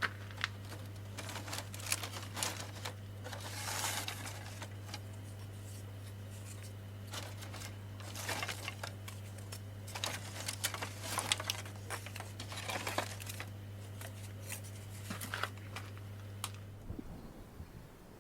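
Irregular rustling, scraping and clicking handling sounds over a steady low hum; the hum cuts off about 17 seconds in.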